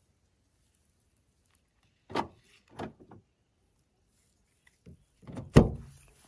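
A few separate knocks and clunks, with the heaviest, deepest thump about five and a half seconds in.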